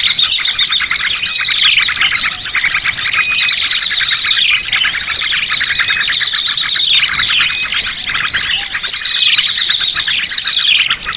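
A dense, loud chorus of many small birds chirping over one another, with high calls that sweep downward again and again. It is a bird-lure recording ('master pikat') played to draw birds into a trap.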